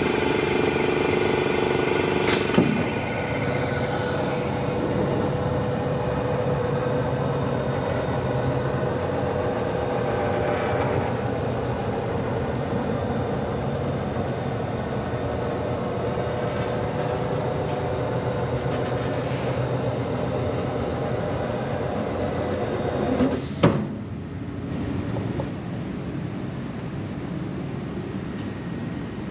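A machine running steadily with a hum of several steady tones. There is a sharp click about two and a half seconds in and another near the end, after which the sound changes.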